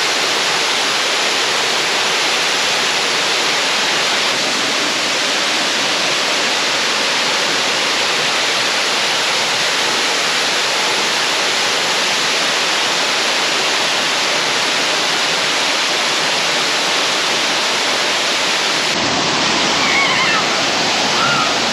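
Waterfall rushing, close up: a loud, steady wash of falling water. Near the end the sound shifts slightly and a few faint chirps come through.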